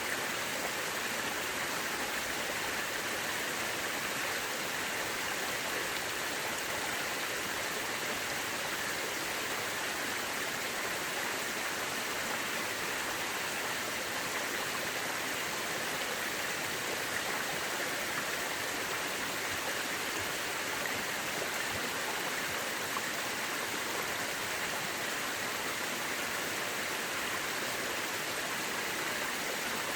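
Mountain river rushing steadily over rocks, an even, unbroken hiss of flowing water.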